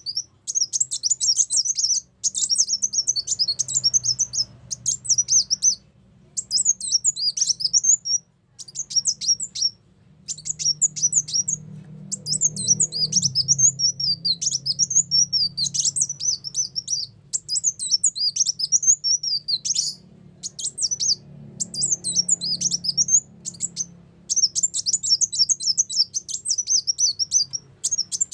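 Sunbird song used as a bird-luring call: rapid, high twittering phrases of one to three seconds, repeated with short pauses between them, over a faint low hum.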